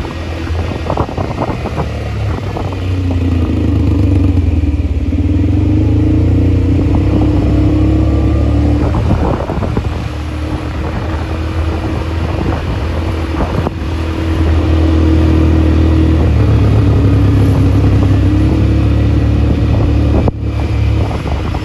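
ATV engine running while riding, rising in pitch and getting louder as the throttle opens about three seconds in and again about fifteen seconds in, with scattered knocks and rattles.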